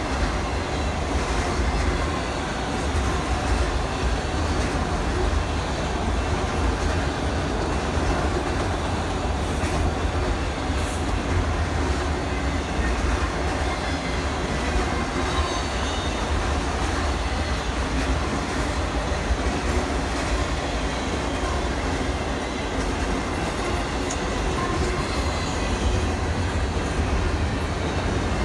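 Train running, a steady low rumble with continuous rolling noise.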